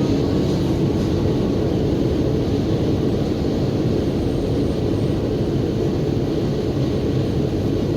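Steady rumble of a diesel passenger train running along the track.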